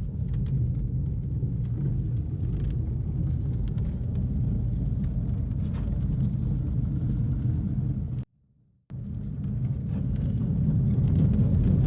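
A 7 1/4 inch gauge miniature railway train running along the track, giving a steady low rumble of wheels on rails with faint clicks. The sound cuts out for about half a second after eight seconds, then carries on.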